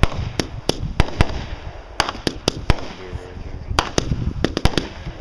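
Fireworks going off: an irregular string of sharp bangs, about fifteen in five seconds, with a low rumble between them.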